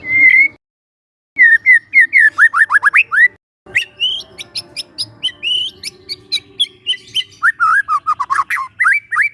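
Young wild white-rumped shama singing: a short held whistle, then phrases of quick downward-sweeping whistles and varied notes mixed with sharp high clicks, broken by brief silent gaps.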